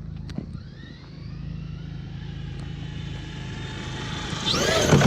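Traxxas RC truck's electric motor whining higher and higher as the truck speeds up, ending in a loud impact near the end.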